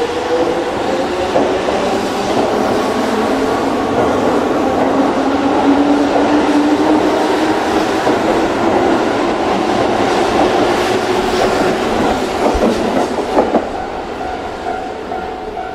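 Keihan electric train running through the station: a motor whine slowly rising in pitch over a dense, steady noise of wheels on the rails, easing off a little near the end.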